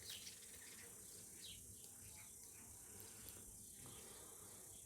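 Faint, steady high-pitched insect chirring, with a few faint short bird chirps.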